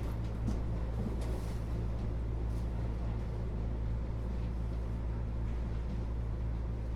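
Running noise inside a Keio 8000 series electric train car: a steady low rumble of wheels, motors and track, with a few faint clicks.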